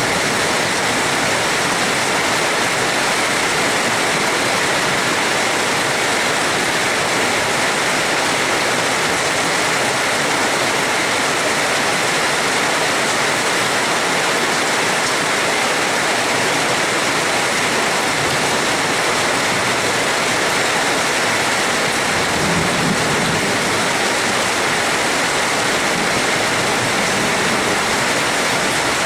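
Steady heavy rain: a continuous, even hiss of falling water with no breaks.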